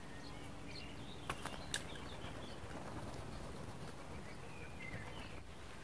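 Small birds chirping in short calls over a steady low outdoor rumble, with two sharp clicks close together about a second and a half in.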